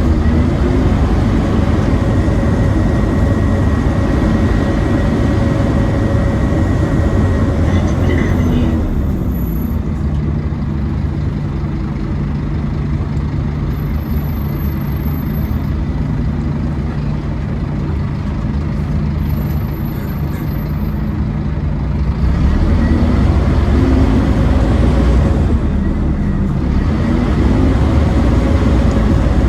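Scania OmniCity bus engine under way with a steady high whine, the loud vacuum-cleaner 'hoover' sound. It drops to a steady idle about nine seconds in, then revs up again as the bus pulls away about 22 seconds in.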